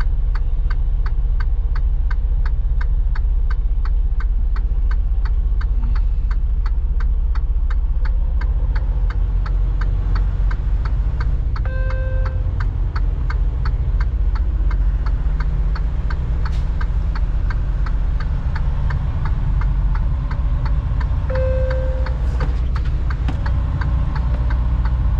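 Freightliner semi truck's diesel engine running in the cab, with the indicator flasher clicking steadily at about two to three clicks a second. Two short beeps sound, about ten seconds apart.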